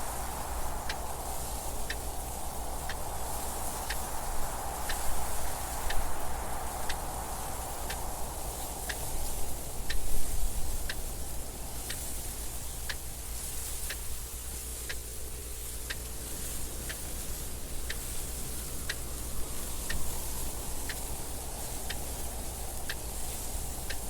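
Clock ticking steadily, about one tick a second, over continuous wind noise that swells and eases.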